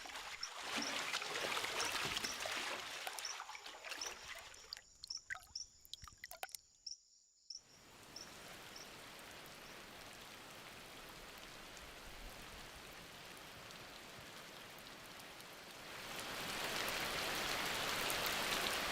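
Rain falling in the forest: scattered splashes and drips at first, settling into a steady hiss that grows louder about 16 seconds in as the downpour gets heavier. A short high chirp repeats about twice a second through the first half.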